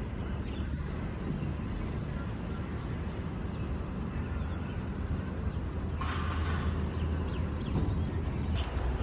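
Steady low background rumble of outdoor ambience, like distant traffic, with no clear single event.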